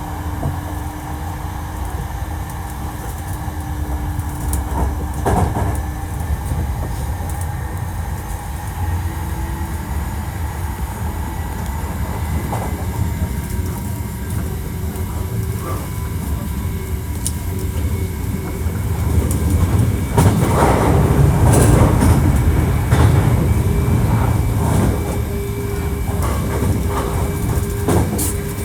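Hankyu 1300 series electric train running at speed, heard from on board: a steady low rumble and hum with scattered wheel clicks over the rails, louder in the last third.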